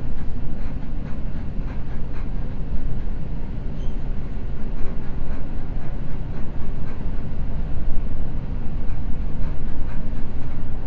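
Seibu Red Arrow limited express electric train running at speed, heard from inside the car: a steady low rumble of wheels on rail with faint clicks from the rail joints now and then.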